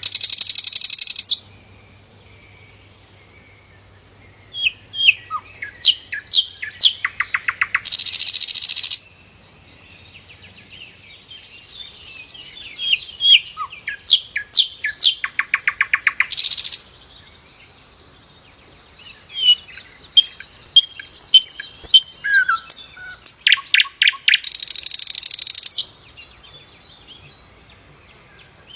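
Sikatan londo, a flycatcher, singing: a fast buzzy trill of about a second and a half, four times at roughly eight-second intervals, with sharp separate chirps and twittering notes between the trills.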